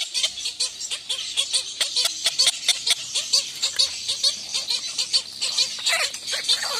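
A bird giving rapid, repeated short squeaky calls, several a second, mixed with sharp clicks.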